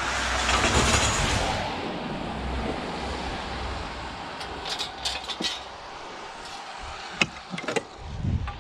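A vehicle passing, its noise swelling about a second in and fading, followed by scattered sharp knocks and clanks and a low thump near the end.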